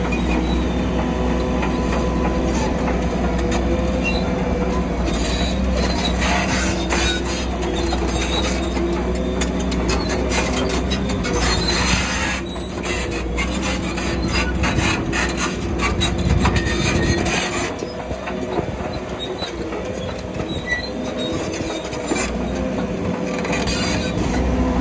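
Shantui crawler bulldozer running under load: a steady diesel drone with the steel tracks squealing and clanking in bouts as it moves.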